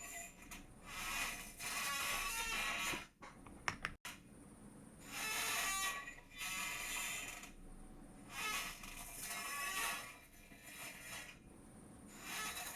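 A chair creaking and squeaking in repeated bursts of a second or two each, about four times, with a few sharp clicks a little over three seconds in.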